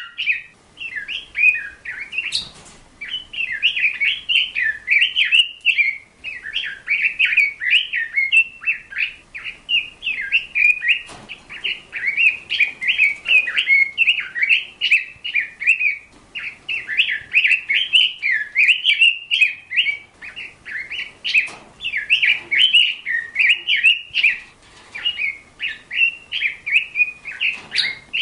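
Small birds chirping and twittering in a fast, almost unbroken stream of short high notes.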